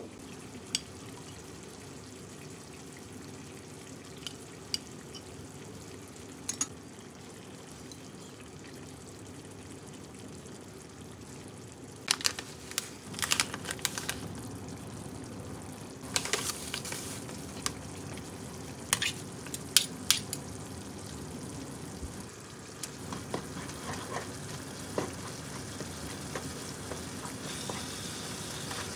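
Ground meat frying in a frying pan with a steady low sizzle while it is stirred with a spatula. Sharp clicks and scrapes of utensils against the pan come in clusters in the second half.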